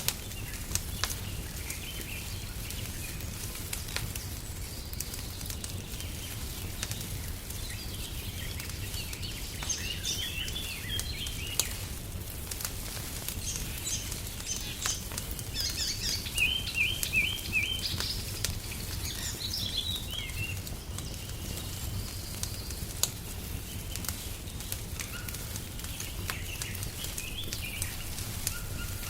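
Wood fire crackling with scattered sharp pops over a steady low rumble, while songbirds chirp. Near the middle comes a short run of quick repeated bird notes.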